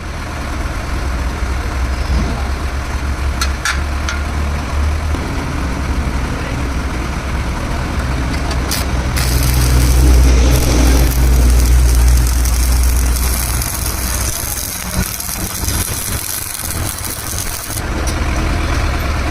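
An engine running steadily with a strong low hum, growing louder for a few seconds about halfway through, with a hiss over it through the second half.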